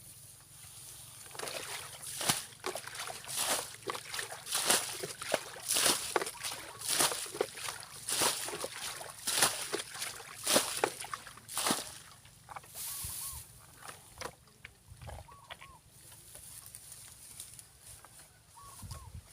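Repeated irregular splashing and sloshing in shallow muddy water as fish are groped for by hand, busiest in the first two-thirds and then easing off. A few faint chicken calls come near the end.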